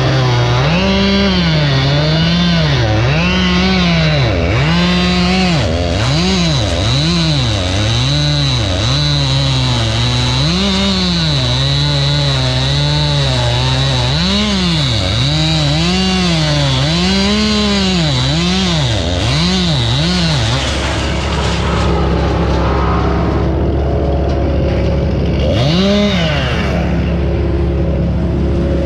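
Gas chainsaw cutting ash wood, its engine pitch repeatedly rising and sagging as the chain bites into the wood and frees. About twenty seconds in the cutting stops and a steady low engine hum continues, with one short rev near the end.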